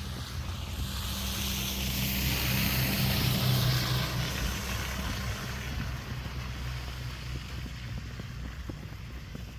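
A motor vehicle driving past: a low engine hum and a rush of tyre noise swell to a peak about three to four seconds in, then fade away.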